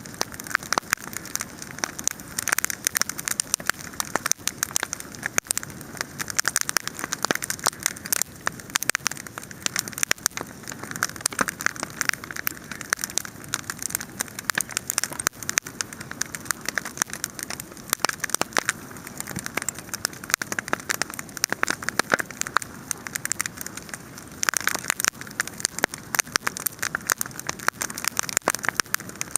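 Wood campfire burning, with dense, continuous crackling and many sharp pops every second. The popping grows busier about 25 seconds in.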